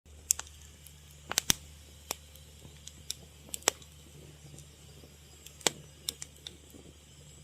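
Fire crackling, with irregular sharp pops over a low steady hum.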